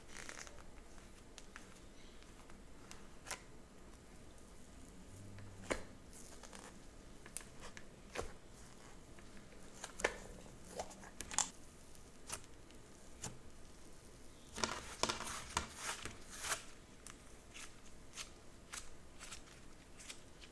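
Slime being handled and played with by hand, giving scattered sharp clicks and crackles, with a quick run of them about fifteen seconds in.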